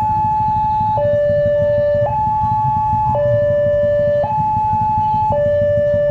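Two-tone hi-lo emergency-vehicle siren, switching steadily between a high and a lower note about once a second, over a steady low rumble.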